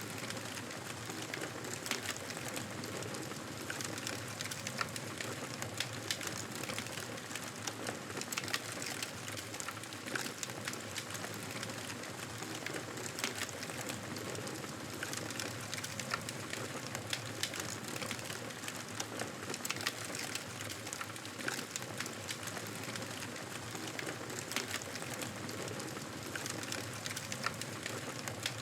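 Fire in a fireplace crackling: irregular sharp pops and snaps over a steady soft hiss.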